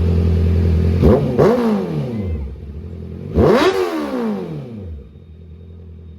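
Honda CBR650R's inline-four engine, breathing through an aftermarket Orion dual exhaust, idling and then revved: two quick throttle blips about a second in and a bigger one in the middle, each rising sharply and falling back to idle. It settles to a quieter idle near the end.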